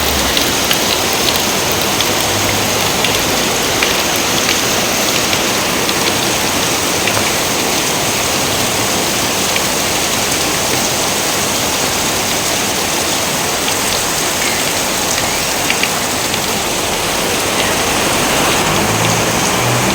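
Steady heavy rain: a dense, even hiss with many individual drops ticking through it.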